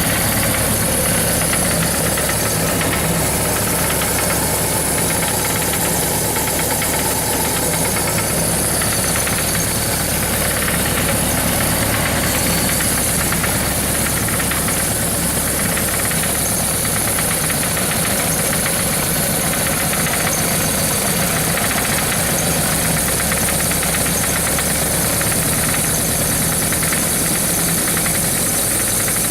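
Suzuki GS1100GK motorcycle's air-cooled inline-four engine running steadily at a constant speed, with a knock that has developed in the engine.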